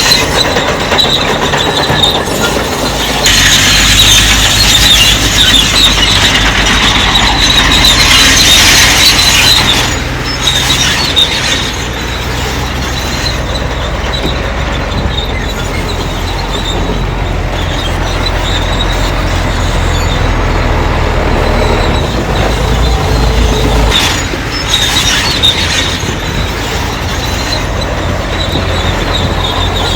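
Crawler bulldozer at work: its diesel engine running under load while the steel tracks squeal and clank, the squeal loudest from about three to ten seconds in.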